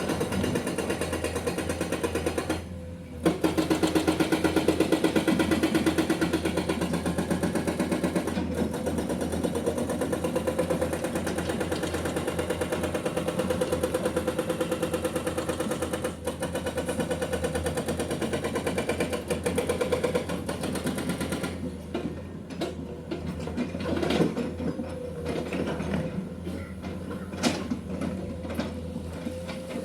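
Excavator-mounted hydraulic breaker hammering limestone: a fast, steady stream of blows over the excavator's diesel engine running. The hammering stops briefly about three seconds in, then runs on louder, and in the last third it turns intermittent and quieter.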